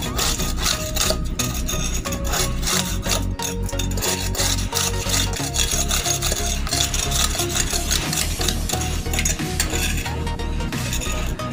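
Continuous rough scraping and rasping of a tool against a ship's bottom, taking off encrusted oysters and marine growth.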